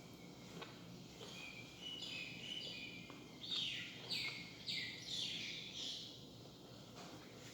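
Wild bird calling: a run of high calls that grows louder toward the middle, the strongest four notes about half a second apart, each sweeping downward.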